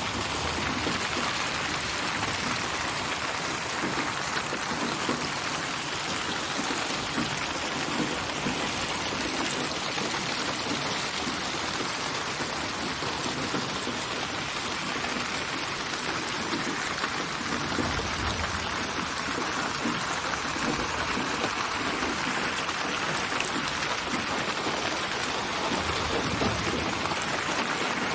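Steady rain falling and pattering on surfaces, an even hiss with faint low rumbles now and then.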